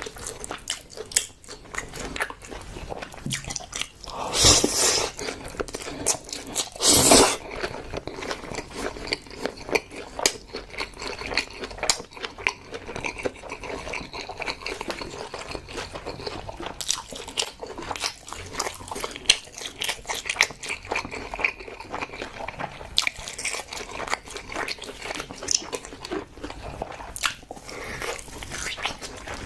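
Close-miked eating of braised pig's trotters and spicy mixed noodles: wet chewing, biting and smacking with many small clicks, and two louder noisy swells at about four and a half and seven seconds in.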